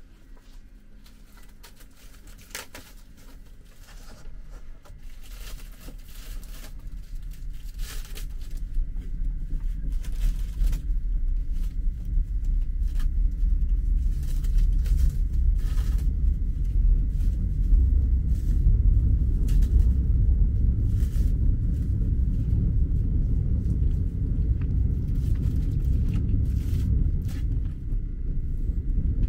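Moving sleeper train's low running rumble inside the cabin, building up over the first dozen seconds and then steady. Scattered light clicks of a plastic spoon against a plastic meal tray.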